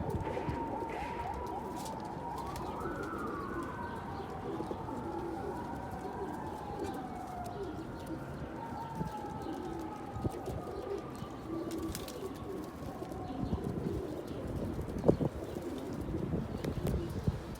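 Domestic pigeons cooing, short low coos repeated over and over, with faint high tones slowly falling in pitch.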